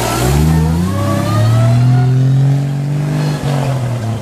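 Classic rally car's engine accelerating hard, rising in pitch, with one upshift about a second in. It then pulls steadily and fades as the car draws away.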